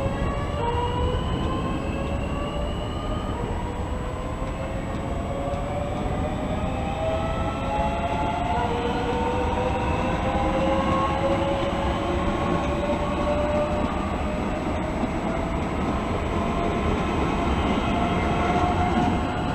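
Electric multiple-unit passenger train pulling away, its motors giving several whining tones that climb slowly in pitch as it gathers speed, over the steady rumble of wheels on the rails.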